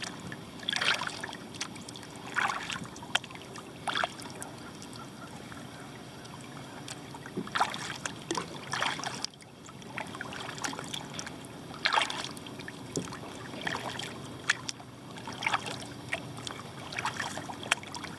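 Kayak paddle strokes: short splashes and drips of water from the paddle blades, coming about every one to two seconds, over a low steady background.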